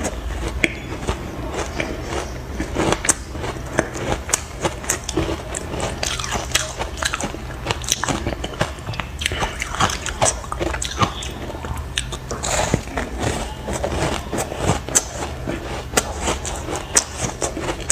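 Close-up crunching of ice chunks being bitten and chewed: an irregular run of sharp cracks and crackles.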